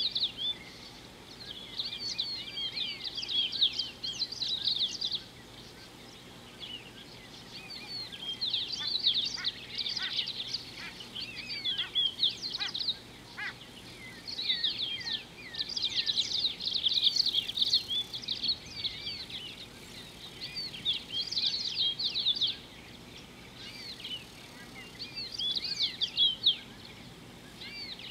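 Birds singing in bouts of rapid, high chirping notes, each bout a few seconds long with short pauses between, over a faint steady outdoor hiss.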